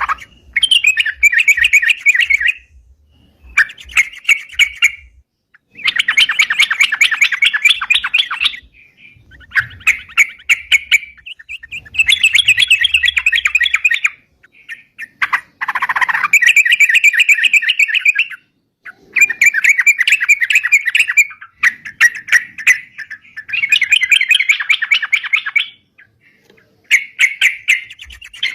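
Yellow-vented bulbul (crucukan) singing at length, in repeated bursts of fast, bubbling chattering phrases a second or two long with short pauses between them. This is the busy, continuous 'gacor' song that bird keepers play as a lure.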